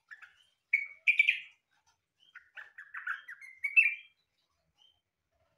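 Yellow-vented bulbul (trucukan) singing: a short note, then two loud phrases about a second in, then a quick run of chattering notes ending in a loud phrase near four seconds.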